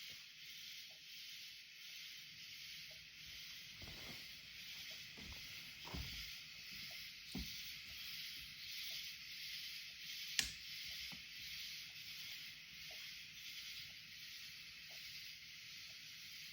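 Night insect chorus outside open windows: a faint, steady high-pitched hiss that swells and fades slightly. A few soft thumps and one sharp click about ten seconds in.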